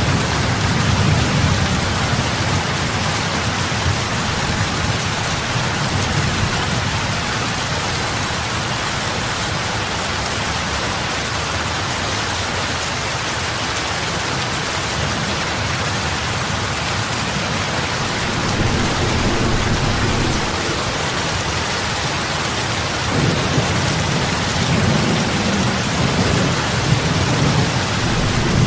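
Heavy rain falling steadily onto a lake's water surface, an even hiss of drops and splashes, with a low rumble underneath that swells up again in the last few seconds.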